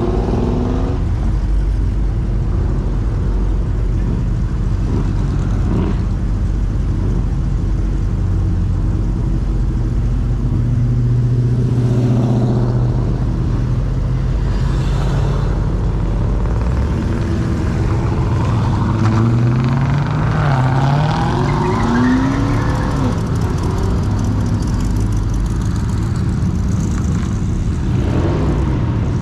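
Cars driving out one after another, their engines running and rumbling, with a steady engine note held for several seconds in the middle and then rising and falling engine notes as cars pull away and accelerate.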